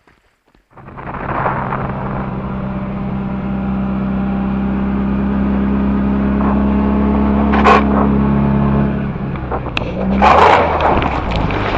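Motorcycle engine running at a steady pitch that climbs slowly. It stops about nine seconds in and is followed by a brief rushing noise.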